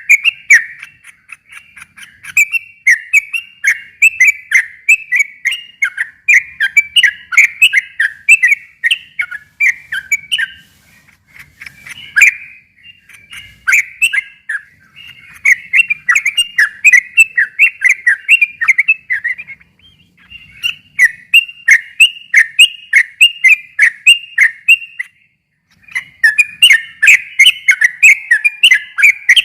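Yellow-vented bulbul (trucukan) singing: long runs of rapid whistled notes, in several phrases broken by short pauses.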